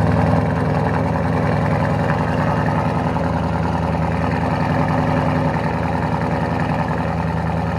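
2024 Ford Mustang GT's 5.0L Coyote V8 idling steadily through a Roush H-pipe exhaust, a loud, even burble with no revving.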